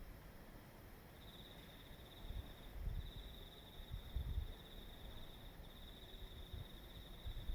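Crickets trilling steadily at a high pitch in short breaks, with two brief low rumbles underneath about two and four seconds in.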